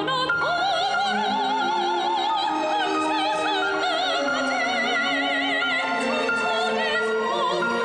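Classical-style singing with a strong, wide vibrato on long held high notes, over orchestral accompaniment.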